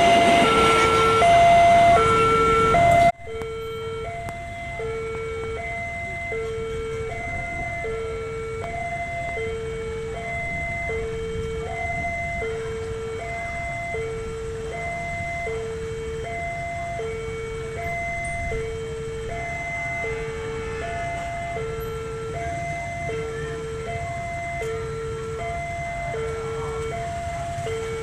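A passing train is loud for the first three seconds and then cuts off abruptly. A railway level-crossing warning alarm beeps steadily throughout, one pitched electronic tone about once a second, over a low rumble.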